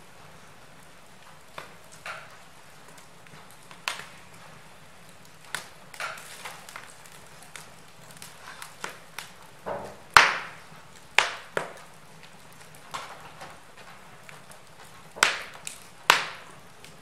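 Wood fire in a fireplace crackling: irregular sharp pops and snaps over a faint steady hiss, the loudest pops about ten seconds in and again near the end.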